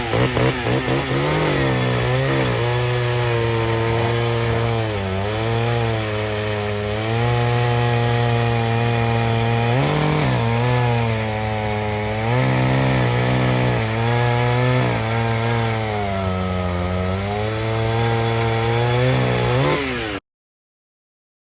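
Vintage two-stroke chainsaw running and cutting wood. Its engine note sags several times under load and picks back up, then stops suddenly near the end.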